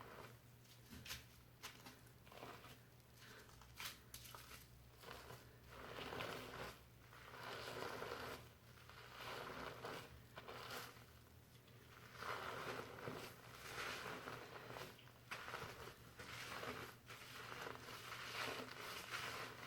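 Fingers scrubbing a foamy shampoo lather through hair: a faint, crackly rustling and squishing that swells and fades in slow rounds.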